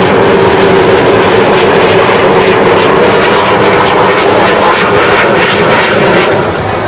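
Blue Angels display aircraft flying over, a loud steady engine roar that eases slightly near the end.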